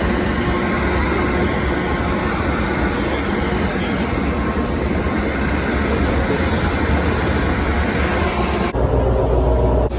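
A train rolling past with a steady rushing rumble. Near the end the sound cuts abruptly to a lower, steadier engine hum.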